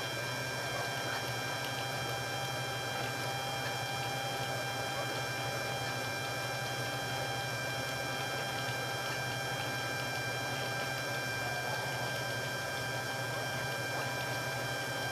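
Electric water pump running with a steady hum, pumping out the old water through a drain hose.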